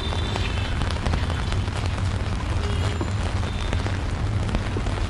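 Steady rain falling on a city street, full of small sharp drop ticks, over a strong, steady low rumble.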